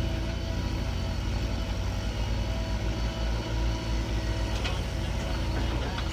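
Heavy diesel machinery engine running steadily with a low throb, and a brief clatter about two-thirds through.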